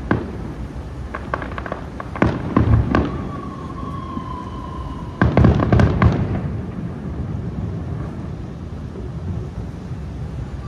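Aerial firework shells bursting at a distance: scattered bangs and crackles in the first three seconds, then a louder volley of booms about five seconds in that fades into a rolling echo. A thin whistling tone sounds for about two seconds between the volleys.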